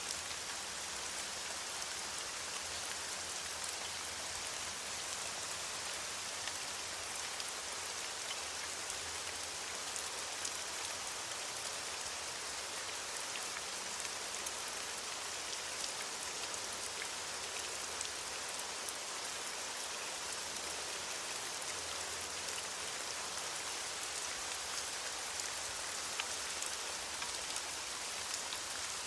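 Steady rain falling on leaves: an even hiss of rainfall, flecked with the ticks of single drops hitting.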